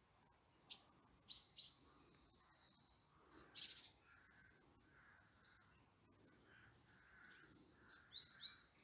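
Birds calling: short, high, downward-sweeping chirps in groups of two or three, with one louder, harsher call about three and a half seconds in.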